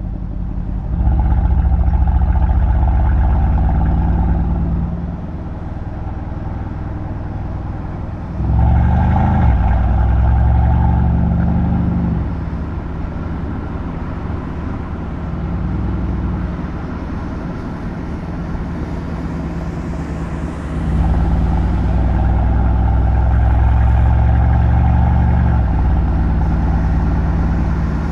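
Mercedes-AMG C63's M177 twin-turbo V8 exhaust while driving, opening up in three bursts of acceleration (about a second in, around 8 seconds, and around 21 seconds) that rise in pitch, and settling back to a lower steady drone between them.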